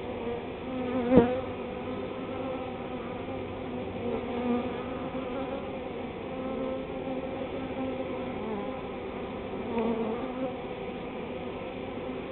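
Honey bee swarm buzzing in the air, a continuous drone with individual bees swelling louder as they fly close past, one near the end. A short sharp tap about a second in is the loudest moment.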